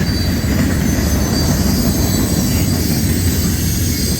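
Freight cars of a long manifest train rolling past at track speed: a steady heavy rumble of steel wheels on rail, with a thin high-pitched ringing above it.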